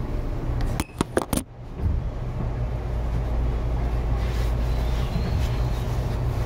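Inside a Tobu 9000 series electric commuter train: a steady low running rumble. About a second in it is broken by a few sharp knocks and a brief dip in level.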